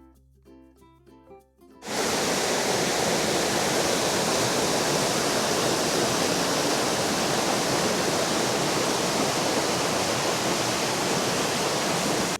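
Light background music for about two seconds, then a sudden cut to the loud, steady rush of a waterfall.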